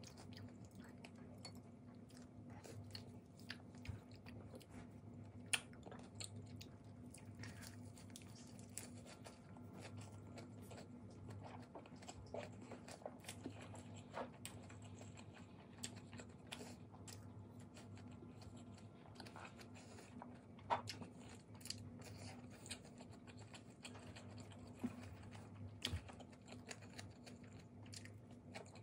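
Faint chewing and eating sounds of a person eating boiled pork, lettuce wraps and spicy noodles, with scattered sharp clicks of wooden chopsticks against ceramic bowls, over a low steady hum.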